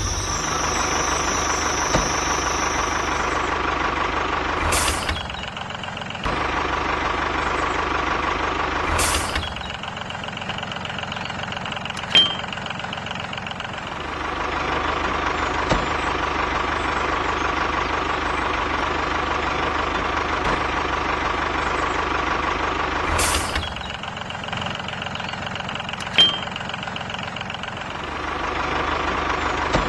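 Small engine of a homemade mini tractor running steadily, with its pitch and character shifting abruptly several times.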